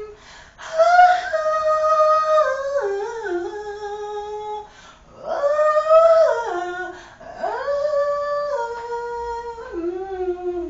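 A woman singing wordless vocal runs a cappella: three held phrases, each starting high and stepping down in pitch.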